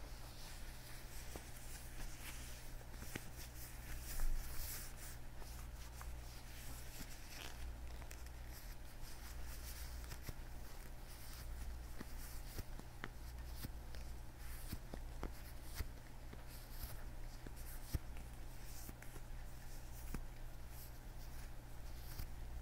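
Leather gloves worn on the hands, rubbing and creaking softly close to the microphone, with a few small sharp taps. A steady low hum runs underneath.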